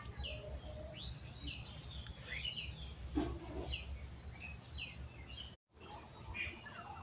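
Small bird chirping: repeated short downward chirps, with a rapid high trill about half a second in, over a steady low rumble.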